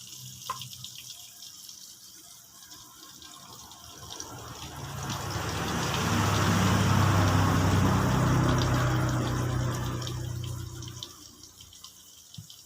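Chicken pieces frying in hot cooking oil, a steady sizzle with small crackles and pops. In the middle a louder rushing noise with a low hum swells up and fades away over several seconds.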